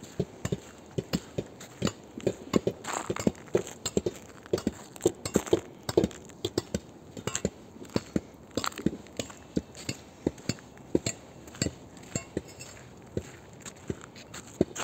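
Footsteps crunching in packed snow, a steady walking pace of sharp crunches about two to three a second.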